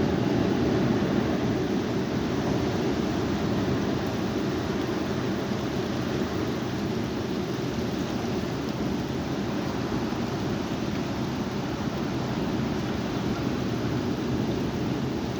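High wind blowing in a steady, low rushing noise.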